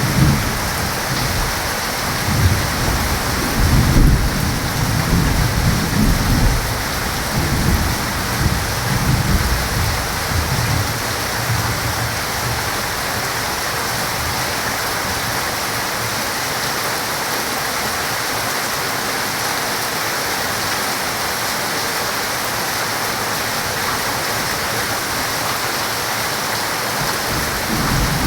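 Heavy rain falling steadily, with thunder rumbling through roughly the first ten seconds and dying away, then rain alone; a low rumble returns briefly near the end.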